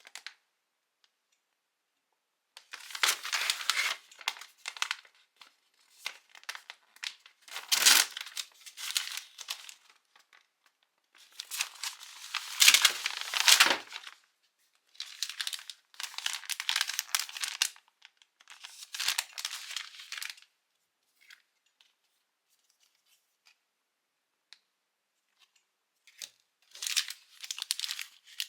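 Instant-food packaging being torn open and crinkled, in about six bouts of a few seconds each with short pauses between.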